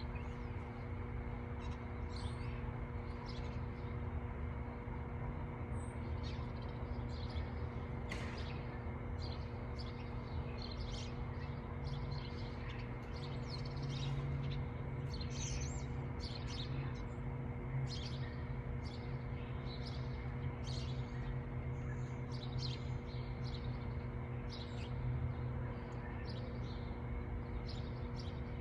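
A flock of birds chirping and calling, many short chirps overlapping throughout, over a steady low hum.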